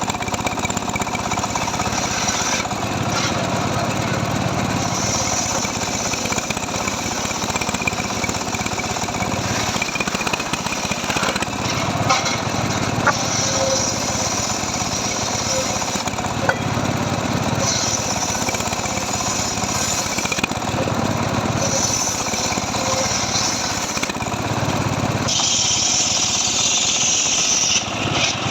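Two-stroke chainsaw engine, a Stihl MS 382, running hard while cutting dry mahogany. Its load swells and eases every few seconds as repeated cuts are made.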